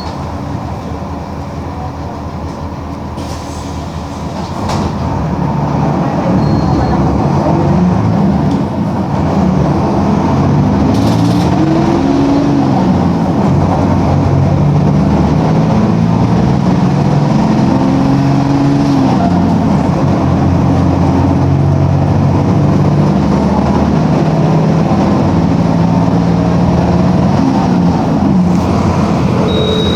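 Mercedes-Benz OF-1721 bus's OM-366LA six-cylinder turbo-diesel engine pulling away. It gets louder about five seconds in, then its pitch rises and falls several times as it revs up and drops back through the gears of the five-speed manual gearbox.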